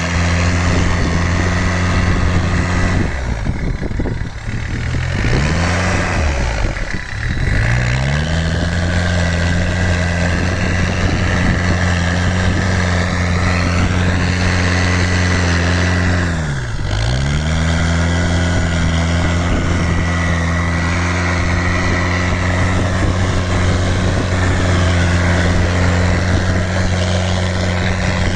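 Homemade 4x4 tractor's engine running steadily; its pitch sags and recovers three times, about four seconds in, about seven seconds in, and briefly about two-thirds of the way through.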